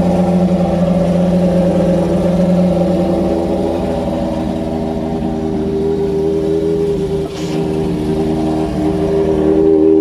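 Classic motorcycle engine running at a steady speed, its tone shifting slightly about a third of the way in.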